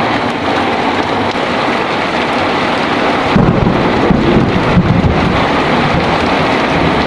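Heavy rain falling steadily. About halfway through, a low roll of thunder rumbles for a couple of seconds.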